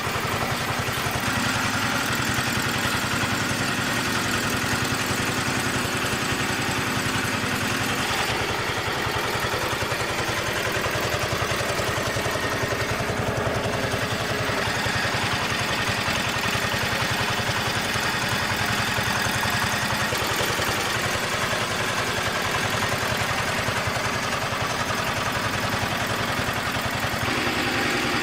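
Repaired diesel engine running steadily, its tone shifting a few times.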